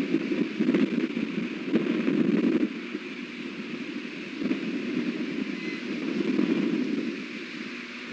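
Strong wind buffeting the nest-cam microphone: a rumbling rush that surges in gusts, dropping off about a third of the way in and building again in the second half.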